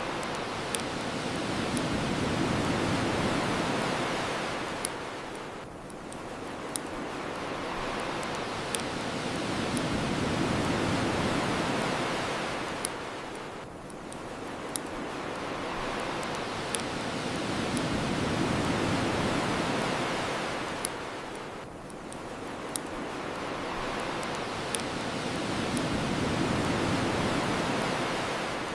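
Ocean waves washing onto the shore, swelling and drawing back about every eight seconds, four times. Sparse sharp pops from a crackling bonfire are scattered through it.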